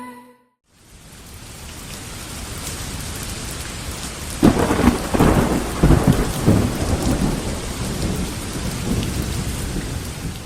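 Steady rain fading in after a moment of silence, then a thunderclap about four and a half seconds in that rumbles on for a couple of seconds while the rain keeps falling.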